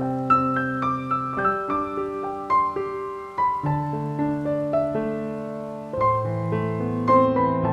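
Slow, gentle piano music: a melody of single struck notes over long held bass notes.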